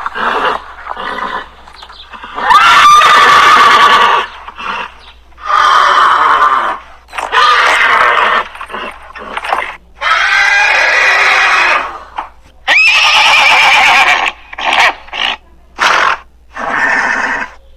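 Horses neighing: a run of loud whinnies, the longer ones lasting a second or two each, with shorter calls between them.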